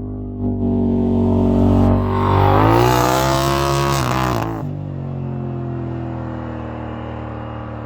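Car engine breathing through a newly fitted aftermarket exhaust, being revved during a sound test. A short blip comes about half a second in, then a longer rev climbs at about two seconds and is held briefly. It drops back to a steady idle just before five seconds.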